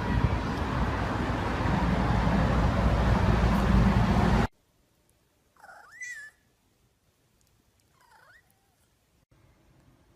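A loud, steady rushing noise that cuts off suddenly about four and a half seconds in, then a cat meowing twice: a rising meow about six seconds in and a shorter, fainter one about two seconds later.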